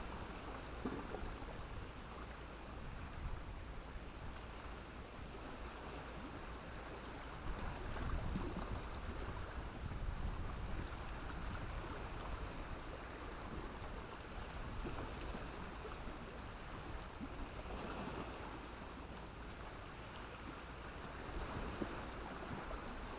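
Sea waves washing onto a beach of black stones and sand: a steady wash that swells about eight seconds in and again near the end.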